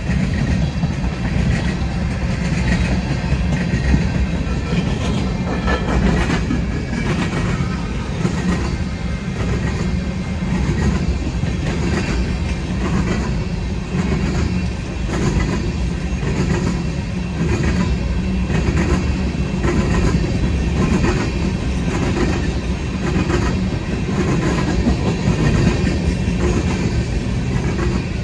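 A long Union Pacific freight train rolling past at close range: a steady rumble of freight cars with a rhythmic clickety-clack of wheels over rail joints.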